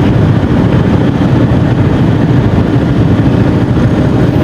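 Yamaha XMAX 250 scooter's single-cylinder engine running steadily, with a dense low rumble throughout.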